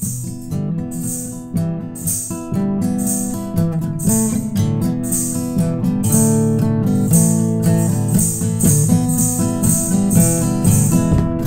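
Instrumental song intro: strummed acoustic guitar with a high percussive shake on a steady beat.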